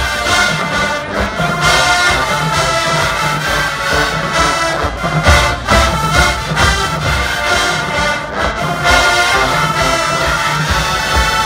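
Marching band playing loudly: massed brass horns holding chords over steady drum hits.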